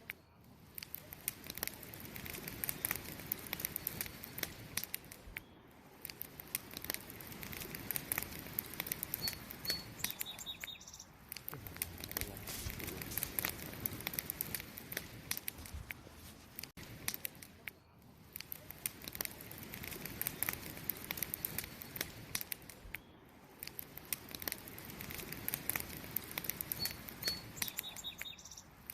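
Wood fire burning, with dense crackling and popping over a steady hiss that swells and eases every few seconds. A short high chirp comes twice, about a third of the way in and near the end.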